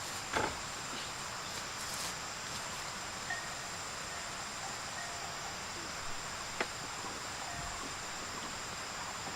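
Steady outdoor ambience with a constant high insect buzz, broken by a few short knocks, the loudest about half a second in and another a little after six seconds.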